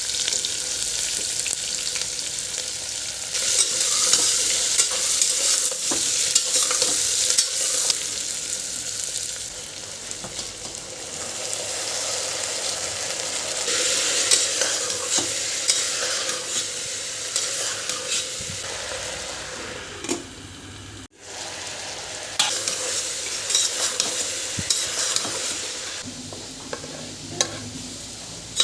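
Food sizzling in hot oil in a pan while a spatula stirs it, with small scrapes and clicks of the utensil against the pan; the sizzle breaks off briefly about two-thirds of the way through, then carries on.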